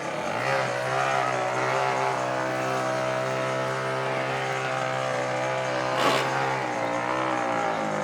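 Off-road racing engine (dirt bike or ATV class) running at high, steady revs, its pitch held for several seconds before it wavers and shifts near the end. A sharp crack cuts through about six seconds in.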